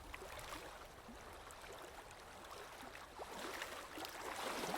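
Faint, gently flowing and bubbling water, a hot-spring water ambience, growing a little louder near the end.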